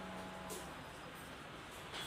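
Quiet room tone with a faint hiss and a soft click about half a second in.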